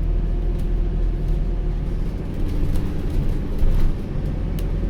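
Alexander Dennis Enviro400H City hybrid double-decker bus under way, heard from inside: a steady low drivetrain rumble with a faint whine, and scattered light clicks and rattles from the interior.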